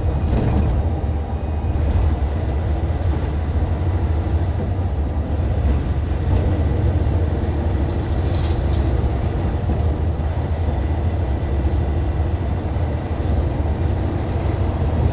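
Hyundai D6CC Powertec 380 inline-six diesel of a Hyundai Universe Comfort coach running steadily, a low drone. A short hiss sounds about eight and a half seconds in.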